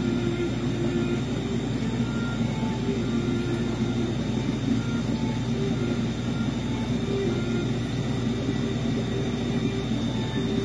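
Steady low hum and rumble of aquarium equipment, with a faint high-pitched whine over it.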